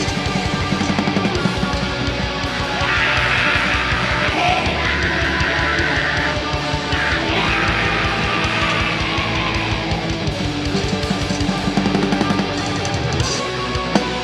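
Heavy metal band playing live: distorted electric guitars over a drum kit.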